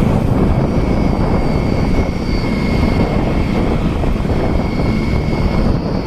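Wind blast buffeting the microphone of a motorcycle rider at road speed, a loud steady rumble, with faint steady whining tones riding on top.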